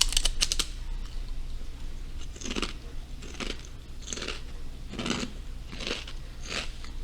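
Biting into a spicy potato chip, with a burst of sharp crunches, then chewing it with a mouthful of crunches about every second, close to the microphone.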